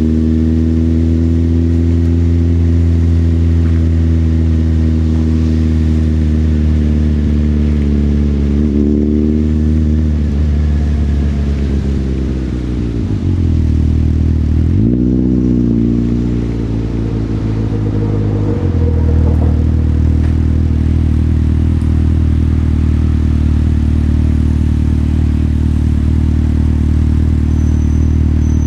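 Motorcycle engine running under way, its note steady for most of the ride. About halfway through the pitch drops as the bike slows, then rises and falls in a quick rev before settling back to a steady note.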